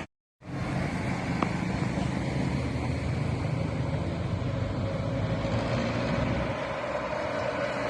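Road traffic: vehicle engines running with a steady low diesel rumble and road noise. It cuts in after a brief moment of silence at the very start.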